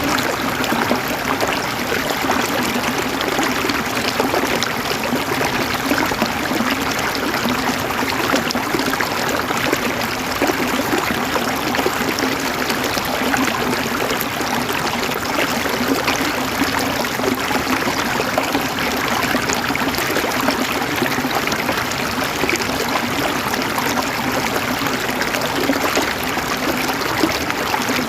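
Flowing water running steadily, a continuous rushing and trickling without pause.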